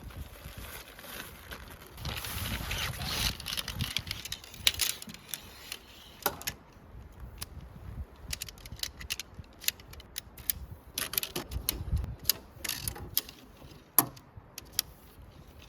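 Rustling and a scattered run of small, sharp clicks and clacks from gear being handled. A louder rustle comes about two seconds in, and the sharpest clacks come near the middle and near the end.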